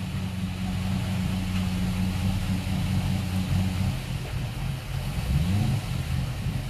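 Twin inboard sterndrive boat engines idling steadily while warming up toward operating temperature. Around four to six seconds in the engine note shifts and briefly rises in pitch before settling.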